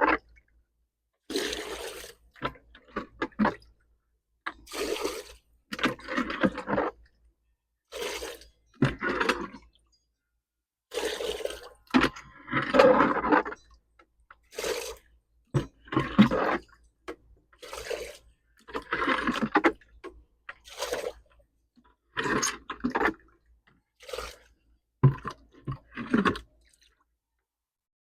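Water sloshing and splashing in about a dozen short bursts with silent gaps between, as the dirty water is cleared out of a garden fountain basin and the basin is washed down.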